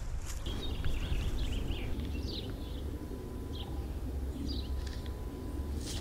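Birds chirping in short calls, a cluster of them in the first couple of seconds and a few scattered later, over a steady low background rumble.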